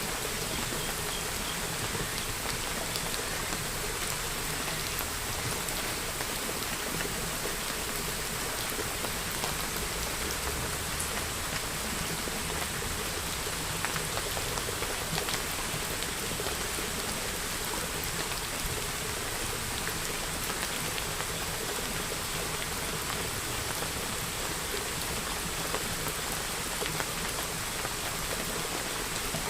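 Steady rain falling: an even hiss with scattered faint ticks of single drops landing.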